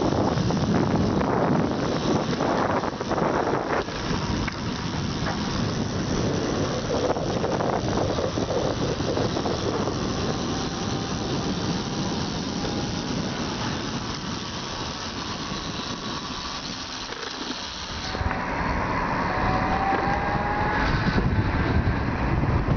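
Small electric-converted moped running, with steady wind and road noise and a faint motor whine that rises in pitch twice, once in the middle and once near the end.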